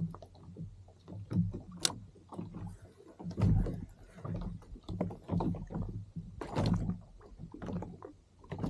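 Water slapping and sloshing against a kayak hull in irregular splashes, about one every second.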